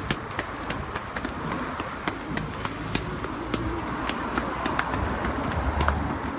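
Running footsteps, about three a second, over a steady low rumble.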